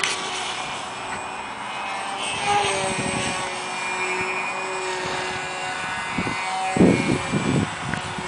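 Electric motor and propeller of a radio-controlled canard airplane in flight: a steady whine whose pitch drifts slightly up and down. Low rumbling bursts about seven seconds in.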